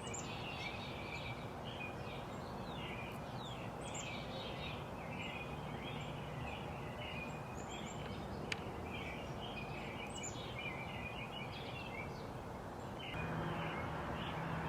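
Several small birds chirping and twittering almost without pause over a steady outdoor background hiss. A single sharp click comes about eight and a half seconds in, and the background noise grows louder near the end.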